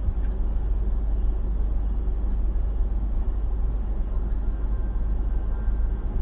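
Steady road and engine rumble heard from inside the cabin of a moving car.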